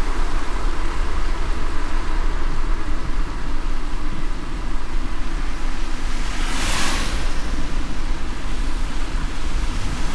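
Car driving in light rain: a steady low road rumble under an even hiss of rain and wet tyres, with one louder swell of hiss that rises and fades about seven seconds in.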